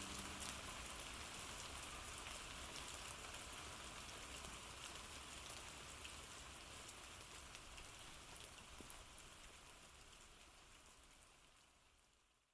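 Steady rain falling, with scattered individual drop hits, fading out gradually until it ends near the close.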